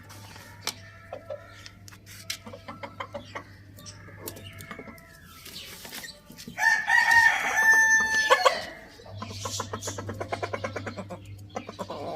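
A rooster crowing once, a single long crow of about two seconds just past the middle, the loudest sound here. Chickens cluck softly before it, and a quick run of soft clucks follows.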